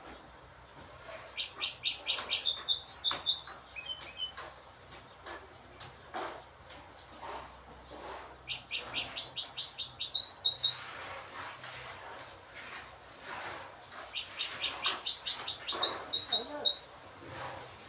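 Goldfinch hybrid songbirds singing: a fast run of repeated high notes ending in a warbled flourish, given three times, with twittering chirps in between.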